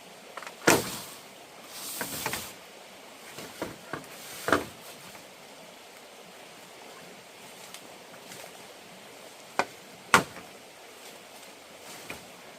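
Scattered, irregular knocks and clatters, typical of handling and fixing wooden parts during building work, with a short scraping rustle about two seconds in. The sharpest knocks come just under a second in and about ten seconds in.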